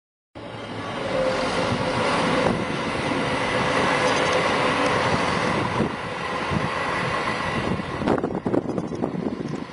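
Passenger train running along the tracks, a steady rumble with a faint hum that starts abruptly and holds. Near the end, wind buffets the microphone.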